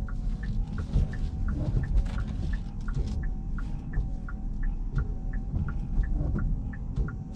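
Low, steady rumble of a Hyundai Kona Hybrid's cabin while driving, with a regular series of short high-pitched pips, about three a second, over it.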